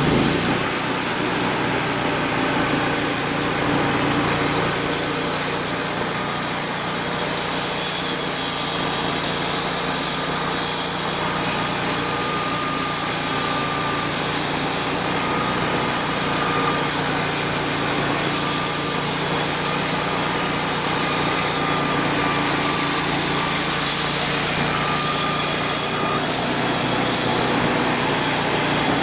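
Wood-Mizer LT35HD band sawmill running steadily under power, its band blade cutting through an ash log, with a faint steady whine over the engine.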